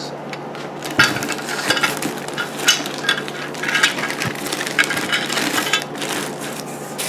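Packaging rustling and crinkling in irregular bursts as exhaust parts are handled, with a few light knocks.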